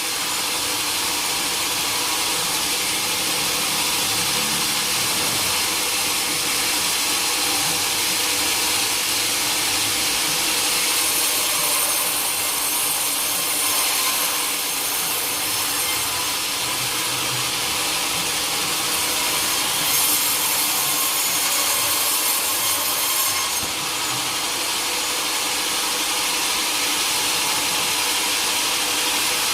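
A sawmill blade cutting steadily through a teak log: a continuous, unbroken sawing noise.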